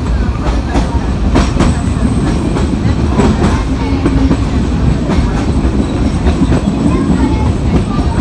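Narrow-gauge train hauled by an Mk45 diesel locomotive running along the track: a steady low rumble with irregular clicks and knocks of the wheels over the rails.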